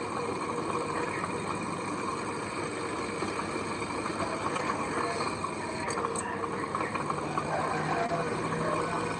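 Diesel engine of heavy earthmoving machinery, a bulldozer or dump truck, running steadily. A low steady hum joins it about seven seconds in.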